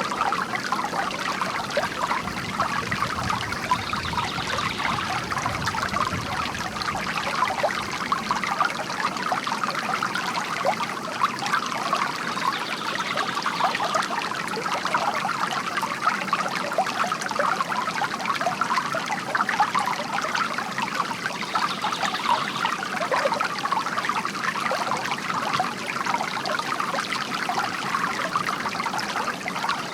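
Bamboo water fountain: a steady trickle of water pouring and splashing into a basin.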